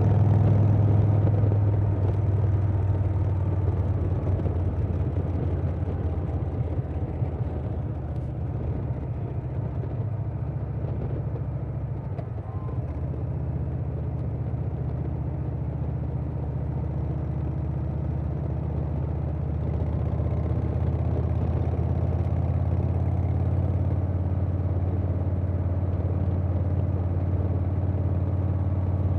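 A 2020 Harley-Davidson Softail Standard's Milwaukee-Eight 107 V-twin running under way through a Vance & Hines Big Radius 2-into-2 exhaust, with wind rushing past. The engine note eases off over the first dozen seconds, then builds back up and holds steady.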